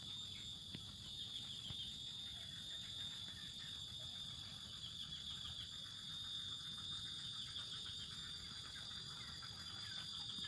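Many short, high chirps of small birds over a steady high-pitched insect drone, with a low background rumble.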